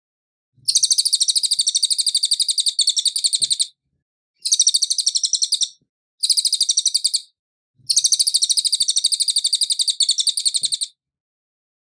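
Cililin songbird singing in four bursts of very rapid, evenly spaced high chirps, each burst lasting one to three seconds with short gaps between. This is a clean song recording of the kind used as a master for training caged songbirds.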